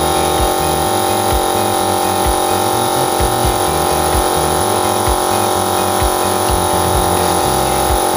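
Steady electric hum of a small motor under background music with a low bass line that steps from note to note.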